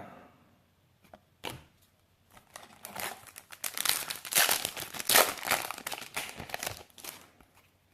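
Foil booster pack wrapper being torn open and crinkled by hand: a single click, then several seconds of crackling.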